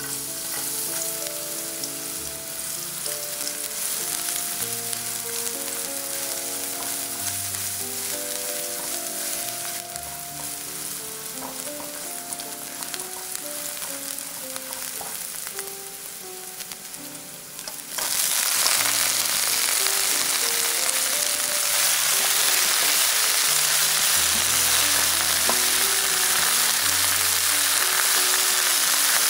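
Minced garlic and scallions sizzling in hot oil in a nonstick pan, stirred with a spatula. About 18 seconds in the frying turns louder and fuller as spinach is stir-fried in the pan.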